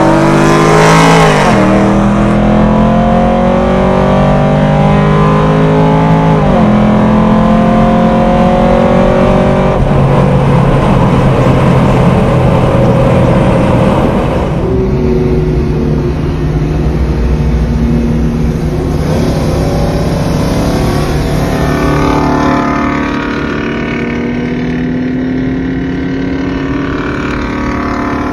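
Car engine at full throttle in a roll race, its revs climbing and dropping back sharply at upshifts about one and six seconds in. The sound changes abruptly about 14 seconds in, and the revs climb again steadily through the second half.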